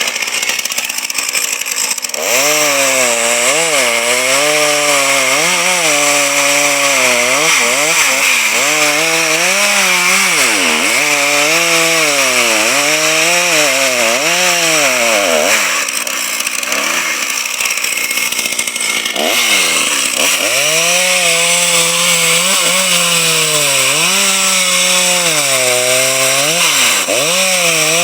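Two-stroke chainsaw revving into a cut about two seconds in, its engine note rising and sagging over and over as the chain loads up in the wood. Around the middle it drops to a lower, easier note for a few seconds, then revs up and cuts again.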